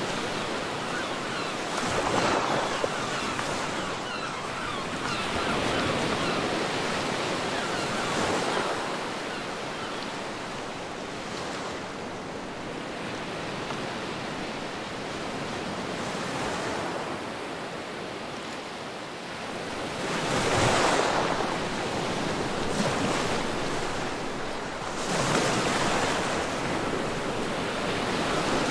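Ocean waves breaking and washing on a beach, a steady surf hiss that swells with each wave, the strongest about a third of the way in and again near the end, with some wind.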